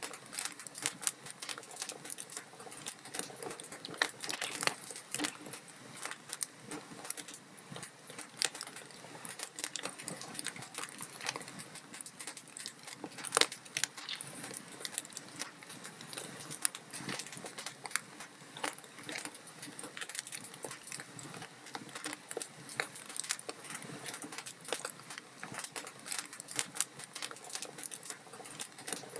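Wood fire burning in a fireplace, with continuous irregular crackling and popping of the logs.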